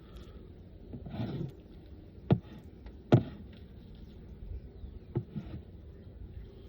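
Wooden beehive parts being handled and knocked together as the hive is closed up: a short scrape, then two sharp knocks about a second apart, followed by a few lighter taps.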